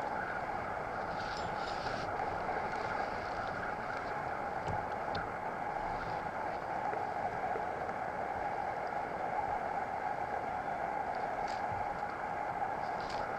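Steady rushing noise of a kayak underway on the water, with a few faint clicks.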